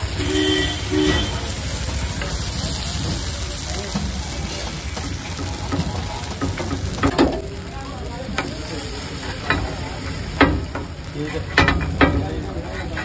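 Dosa and its vegetable filling sizzling on a hot griddle while a metal spatula stirs and spreads it. In the second half the spatula clicks and scrapes sharply against the griddle, several times.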